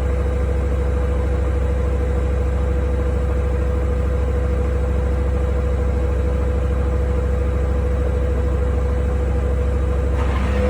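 Haier HW90-BP14636 front-loading washing machine running, its belt-driven inverter motor giving a steady whine over a low hum. Near the end the whine starts rising and the machine gets louder as the drum speeds up.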